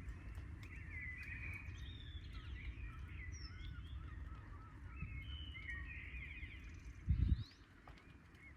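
Birds calling repeatedly in short honking, gliding calls over a steady low outdoor rumble, with a sudden low thump about seven seconds in.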